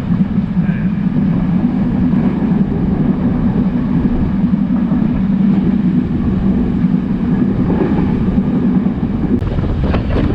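Class S13 diesel multiple unit running along the line: a steady low drone of its power unit over a rumble of wheels on rail. The drone drops away about nine seconds in, leaving the rumble.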